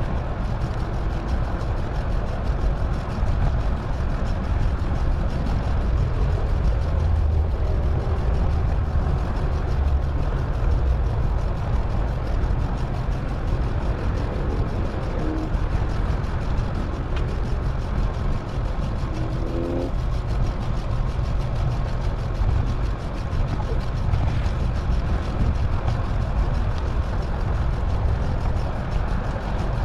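Steady low rumble of wind and road noise on a moving bicycle, with traffic passing. Two brief pitched sounds come through about halfway.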